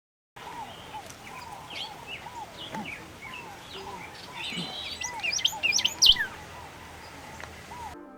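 Several wild birds calling at once: a steady string of short arched calls repeating under higher quick chirps and trills, loudest about five to six seconds in. The sound starts and stops abruptly.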